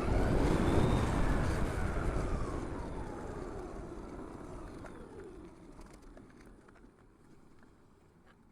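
A road vehicle passing close by: the sound swells and peaks about a second in, then fades away over several seconds with a falling pitch.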